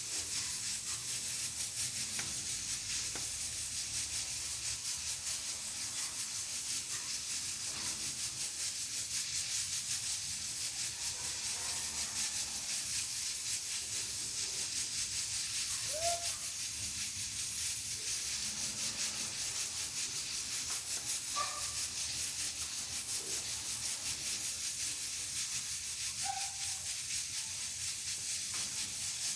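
Pressure cooker on a wood-burning stove steadily hissing as steam escapes from its valve while beans cook. A few short faint chirps come in about midway and near the end.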